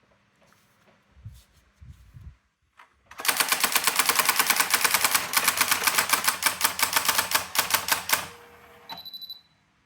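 Brother AX-425 electronic daisy-wheel typewriter printing at speed, a run of about ten evenly spaced strikes a second lasting about five seconds, after a few soft knocks. A short high-pitched tone sounds near the end.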